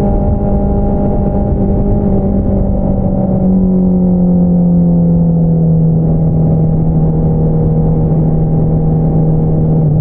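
2022 Honda CBR650R's inline-four engine running through an Akrapovič single-outlet exhaust, a steady drone while riding. About three and a half seconds in, the pitch steps down and the sound gets a little louder, then sinks slowly.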